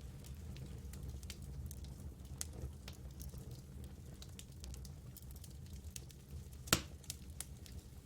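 Wood campfire crackling, with scattered small snaps and one loud pop about two-thirds of the way through, over a steady low rumble.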